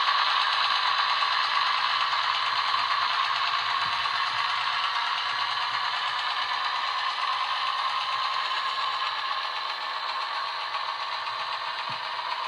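Model diesel locomotive running along the track: a steady rattle and clatter of its small motor, gears and wheels that slowly grows quieter.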